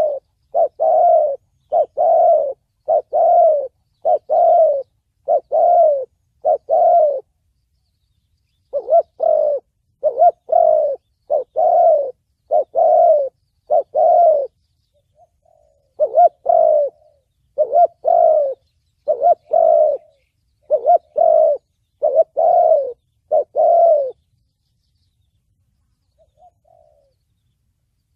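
Spotted dove cooing in the 'thổ bầu' call style: runs of short, repeated mellow coos broken by brief pauses, with a longer silence near the end.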